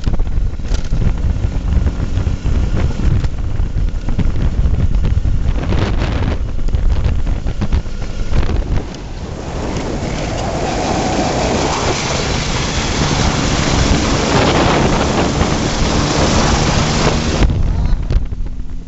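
Heavy wind buffeting on the microphone, with a low rumble for the first nine seconds. It then gives way to a broad rushing hiss, which cuts off shortly before the end.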